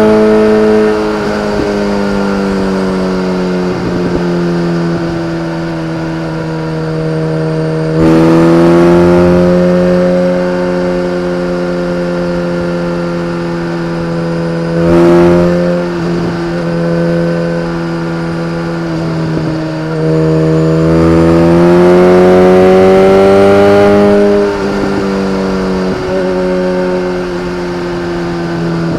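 BMW K1300R's inline-four engine through an Akrapovic exhaust, running under way at fairly steady revs. The throttle opens louder about eight seconds in, with a short sharp burst near the middle, and the revs climb gradually about three quarters of the way through.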